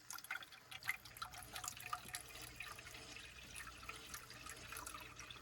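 Bottled water glugging and splashing as it is poured into a pot for boiling rice.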